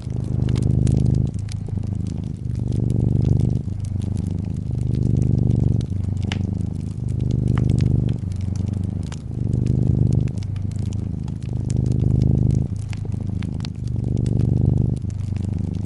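A domestic cat purring. The purr swells and eases about every two seconds as the cat breathes in and out. Under it run the light crackles and pops of a wood fire.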